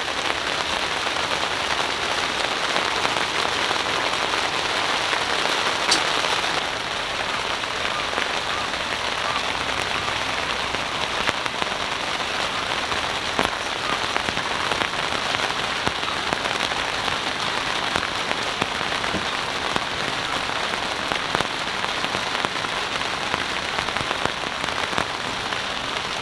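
Steady rain falling on a moored sailboat and its dock, a dense hiss of many small drop ticks that eases slightly after about six seconds.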